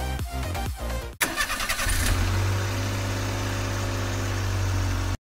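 Electronic dance music with a steady beat, cut off about a second in by a car engine sound effect: the engine starts up and then runs steadily, stopping abruptly near the end.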